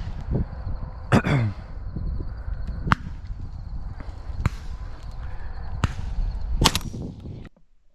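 About five shotgun shots from dove hunters spread across the field, each a sharp crack, some louder and closer than others; the loudest come about a second in and near the end. The sound cuts off abruptly just before the end.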